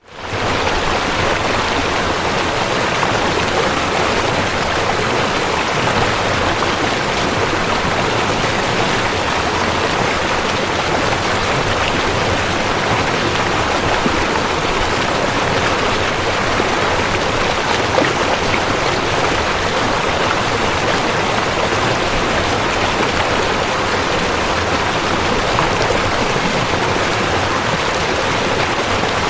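Rushing river water running in a steady, loud rush with no breaks. It comes back in right at the start after a brief gap of silence.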